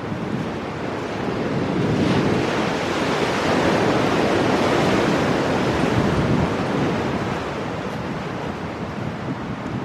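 Ocean waves breaking and washing over shore rocks, a surge that builds about two seconds in and eases off after about six seconds, with wind on the microphone.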